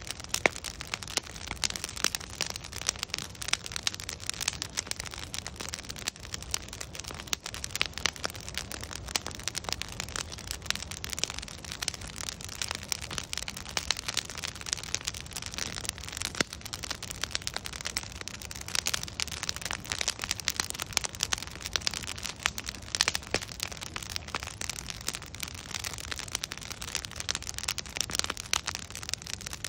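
Wood fire burning, with dense, irregular crackling and popping of logs over a low steady rumble.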